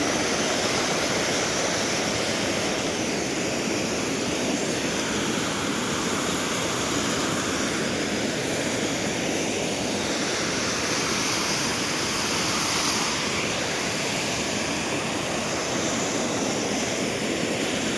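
Waterfall rushing steadily as water pours and splashes over rocks.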